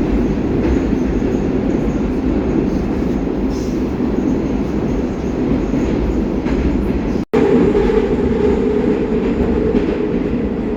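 Steady, loud running rumble of a Baltiets metro train heard from inside the car as it travels through a tunnel: wheels on rail and running gear. The sound cuts out completely for a split second about seven seconds in.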